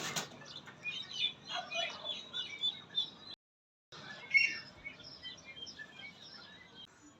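Small birds chirping, many short high chirps overlapping, with a dead-silent gap of about half a second just past the middle.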